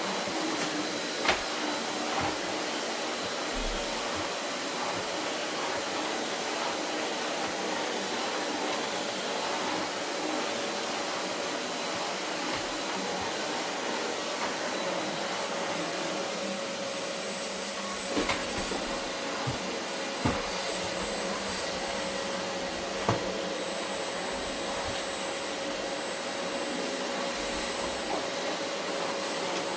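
Vacuum cleaner running steadily over carpet, an even rushing noise with a high whine. A few short knocks come through, about a second in and three or four times in the second half.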